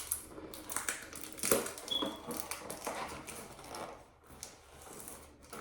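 Handling noises: a run of light clicks, taps and rustles of small objects and packaging being worked by hand, with a louder knock about a second and a half in.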